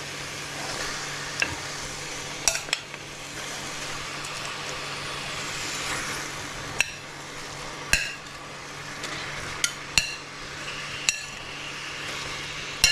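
Chicken pieces sizzling in a pot of fried onions and fat as they are stirred, with a utensil clicking against the pot about nine times.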